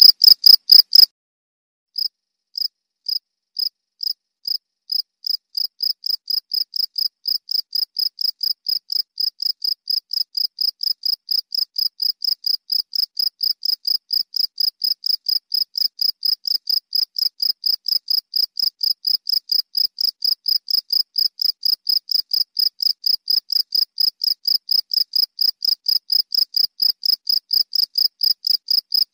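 Cricket chirping in a regular train of short, high chirps. It breaks off about a second in, then starts again slowly and speeds up to about three chirps a second, getting a little louder.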